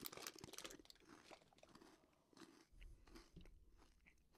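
Faint crunching and chewing of crunchy Cheetos in the mouth: a quick run of crunches in the first second, then softer, scattered chews.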